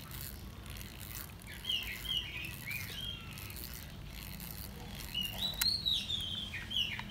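A small songbird chirping in two bouts of quick, rising and falling notes, with a single sharp click a little past the middle.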